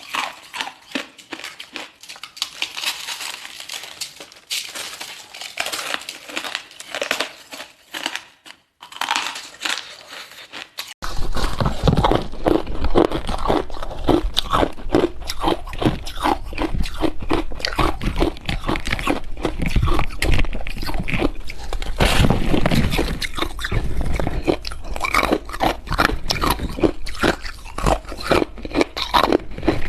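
A person biting and chewing hard ice close to the microphone: rapid, irregular loud crunches. About eleven seconds in the crunching becomes much louder and deeper, with a heavy low rumble under each bite.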